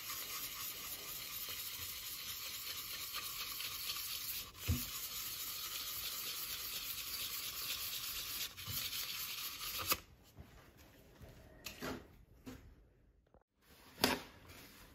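Sanding the turned burl on the wood lathe: a steady abrasive hiss that stops suddenly about two-thirds of the way through, followed by a few light knocks.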